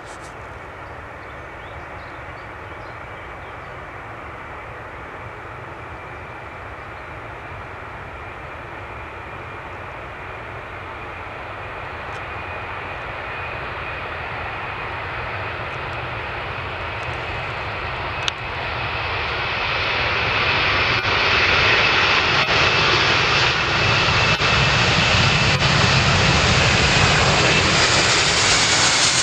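Jet engines of a four-engine Boeing 747-400F freighter at takeoff power, a steady rushing noise with a faint whine that grows gradually louder. The sound swells more sharply about two-thirds of the way in as the aircraft draws closer.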